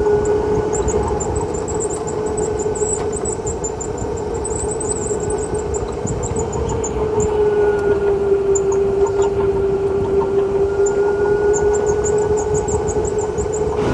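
Electric go-kart's motor whining at a steady high pitch as it drives at speed, with tyre and track noise beneath. The whine dips slightly in pitch about halfway through.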